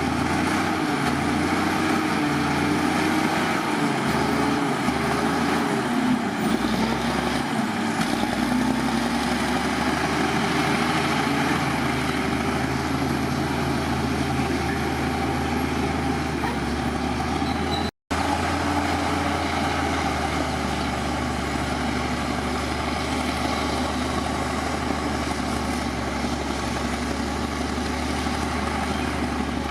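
Heavy diesel engine of earthmoving machinery running under work. Its pitch wavers through the first half and holds steadier after a momentary break in the sound about two-thirds of the way through.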